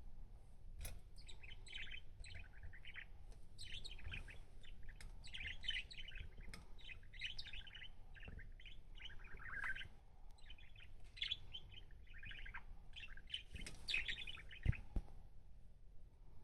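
Budgerigar chattering and warbling in continuous runs of rapid short chirps, with a few faint clicks and one sharp knock near the end.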